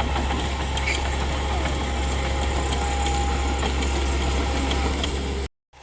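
Komatsu D31P crawler bulldozer's diesel engine running at a steady pace, a deep drone with a thin steady whine over it. The sound cuts off abruptly near the end.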